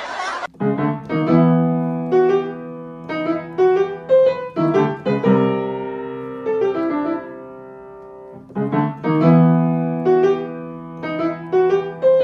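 Piano music: single struck notes forming a gentle melody over sustained, slowly fading chords. A short noisy burst is cut off about half a second in.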